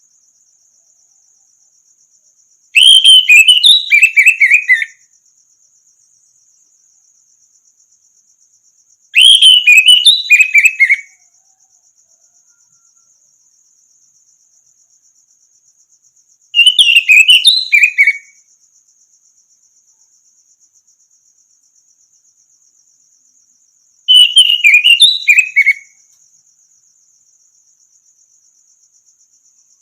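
Orange-headed thrush singing: four short phrases of quick whistled notes, each about two seconds long and six to seven seconds apart, over a faint steady high trill.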